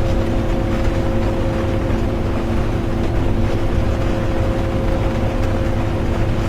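Steady drone inside a moving bus: low engine and road rumble with a constant humming tone, under an even hiss of rain.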